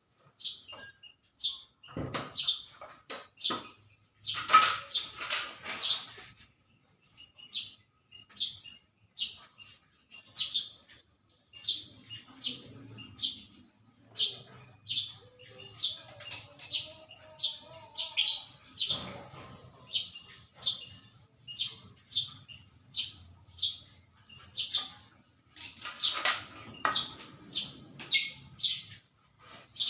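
A small bird chirping over and over, short high chirps about once a second. Several stretches of rough scraping or rubbing come in between.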